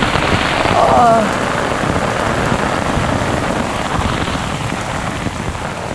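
Heavy rain pouring down steadily in a thunderstorm, with a brief voice sound about a second in.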